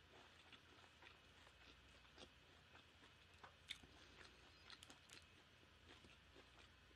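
Faint chewing of a mouthful of food: soft, scattered mouth clicks and small crunches.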